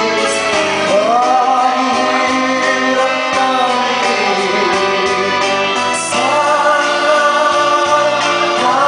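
A vocal duet singing a slow song over instrumental backing. The voices slide up into long held notes, and a new phrase begins about six seconds in.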